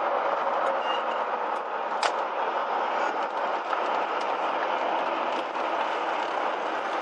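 Small motorhome driving slowly, heard from inside the cab: steady engine and road noise with light rattles and ticks, one sharper tick about two seconds in.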